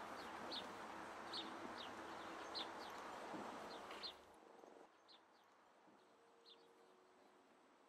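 Small birds chirping in short, falling chirps, a few each second, over a steady outdoor hiss. The hiss drops away about four seconds in, and the chirps carry on more faintly.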